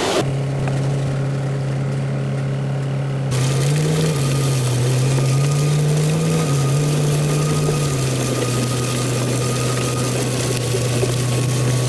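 Engine of a snow-plow vehicle running steadily at low revs, its pitch rising and falling a little for a few seconds in the middle.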